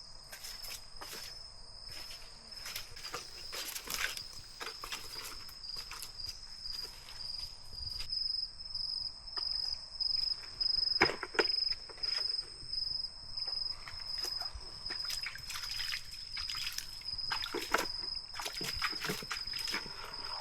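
A steady high-pitched insect drone over irregular rustling, knocking and footsteps of someone moving about on wet ground, with some sloshing.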